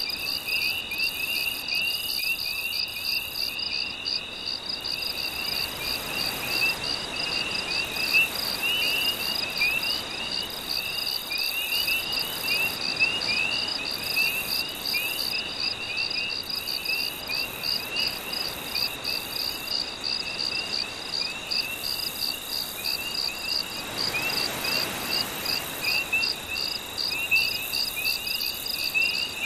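Night chorus of insects and frogs: a steady high trill pulsing about twice a second over a layer of quick chirps. A soft wash of gentle surf swells up briefly twice.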